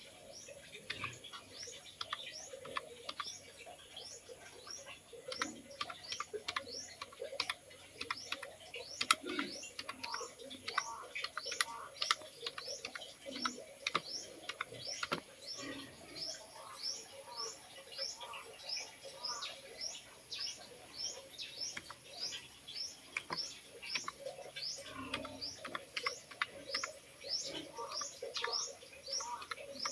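Birds chirping in quick, repeated rising chirps, about two a second. Under them are faint clicks of keys being pressed on a small wired keyboard.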